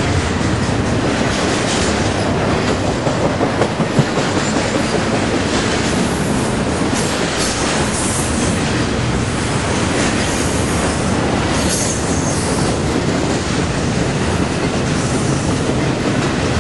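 Double-stack intermodal freight train's loaded well cars rolling past close by: a steady, loud rumble and clatter of steel wheels on rail, with a sharp knock about four seconds in.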